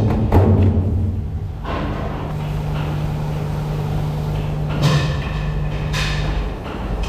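Factory machinery running with a steady low hum, with heavy thuds at the start and two sharp knocks near the end.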